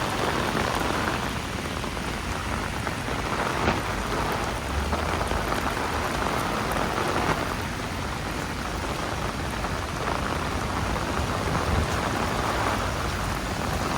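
Steady, even rain falling on a city street, with a low rumble underneath.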